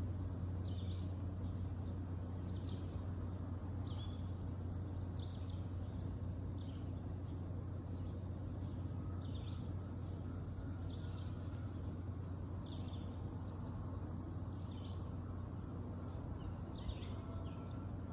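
A bird chirping again and again, a short call about every second and a half, over a steady low hum.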